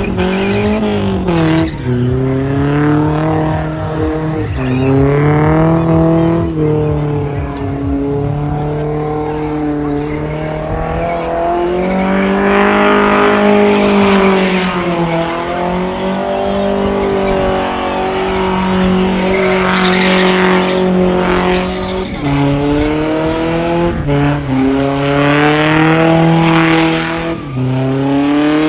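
Drift car engine revving hard with tyres squealing and skidding; the engine's pitch climbs and sags, dropping sharply several times as the throttle is lifted or gears change.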